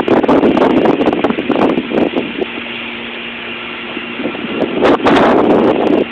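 High storm wind gusting across a phone microphone, buffeting it in loud swells, with a brief lull about halfway through and a strong gust near the end.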